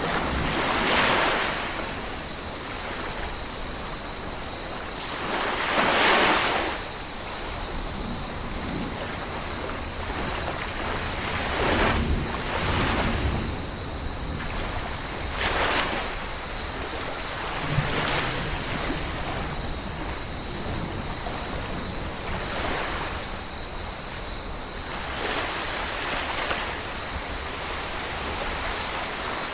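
Ocean waves washing onto a tropical beach, each breaking wave swelling up every few seconds over a steady surf hiss, the loudest about six seconds in. A faint steady high-pitched tone runs underneath.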